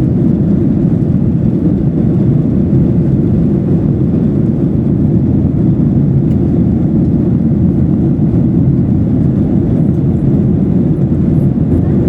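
Steady low cabin noise inside a Boeing 737-800 in flight, the hum of its engines and airflow unchanging throughout.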